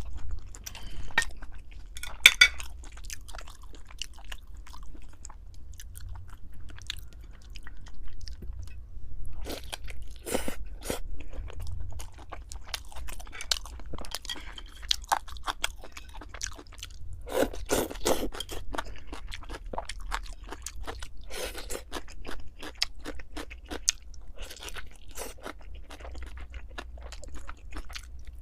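Close-miked chewing and crunching of food, with many irregular sharp crunches from bites and chews; a loud burst comes about two seconds in and another cluster a little past the middle.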